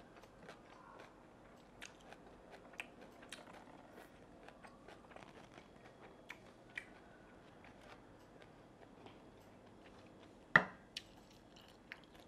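Close-miked chewing of a fried fish ball filled with salmon roe: many small wet clicks and light crunches from the mouth. About ten and a half seconds in comes a single sharp knock, the loudest sound, followed by a few smaller clicks.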